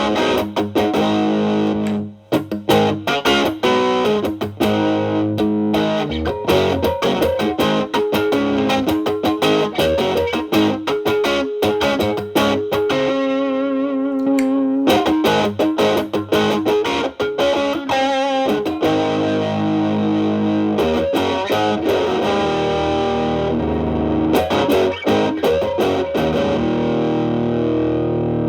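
Overdriven electric guitar, a Telecaster through an MXR Distortion+ with its distortion knob set low (1–2), boosted by a Boss SD-1 into a Marshall Valvestate amp's clean channel, playing picked single-note lead lines. There is a short break in the playing about two seconds in, and a couple of held notes with vibrato in the middle.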